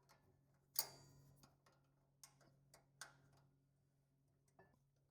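A few faint, sharp clicks and taps of metal parts being handled, the loudest about a second in, with smaller ones spread over the following seconds.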